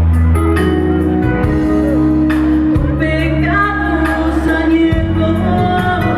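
Live music: a woman singing over instrumental accompaniment, with long held notes.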